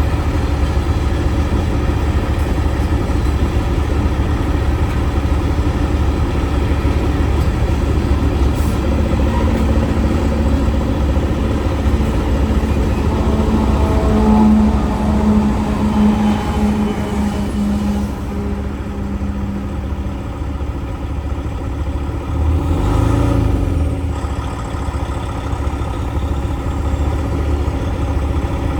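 Log truck's diesel engine running, a deep steady drone. A humming tone rides over it from about a third of the way in until past halfway, and a brief heavier low surge comes about three-quarters through.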